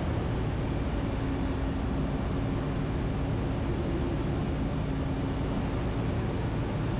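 Ikarus C42's Rotax 912 flat-four engine and propeller running steadily in flight, heard from inside the cockpit as an even drone. A faint steady tone sits over it from about a second in until near the end.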